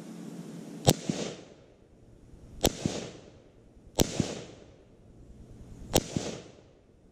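Four sharp bangs, unevenly spaced over about five seconds. Each is followed by a short echoing tail.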